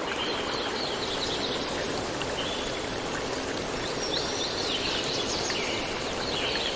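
Steady rush of a flowing stream, with small birds chirping in quick, high phrases several times over it.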